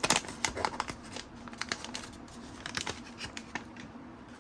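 A trading-card pack's wrapper crinkling as it is torn open, busiest in the first second. Softer crackles and clicks follow as the cards are handled.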